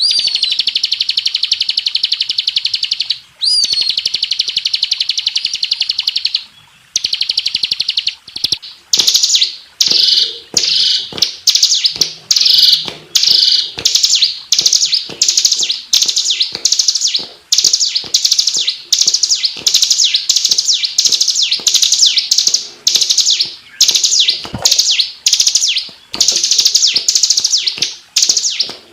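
Bar-winged prinia (ciblek) singing: a loud, fast, unbroken high trill for the first several seconds, then a rapid string of short chirping phrases, about one and a half a second.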